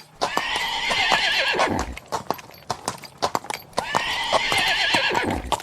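Horse neighing twice, each whinny about two seconds long with a quavering pitch that falls away at the end, over a steady clip-clop of hooves.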